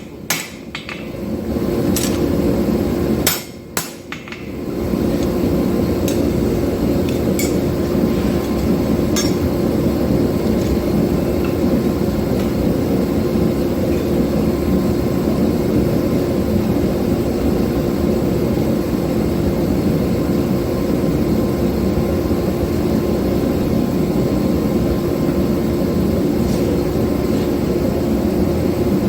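A few hand-hammer blows on steel in the first four seconds: one, then two close together. After that a steady rushing noise with a low hum takes over, with a few faint metallic clinks.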